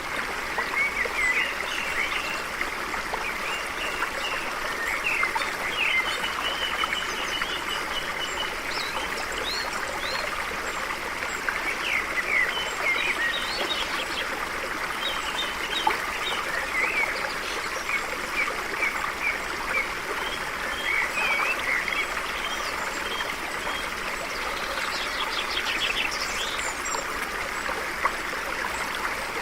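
A stream flowing steadily, with birds chirping and calling over it in many short, quick notes.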